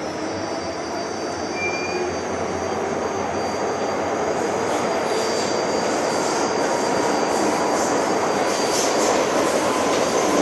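MTR Island Line metro train running on the line, with a steady rumble and hiss of wheels on rail that grows gradually louder as it picks up speed. A thin high whine carries through the first part and fades out about two thirds of the way in.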